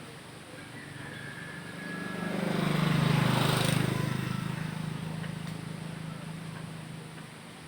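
A motor vehicle passing by: its engine hum and road noise swell up to a peak about three seconds in, then fade away, dropping slightly in pitch as it goes.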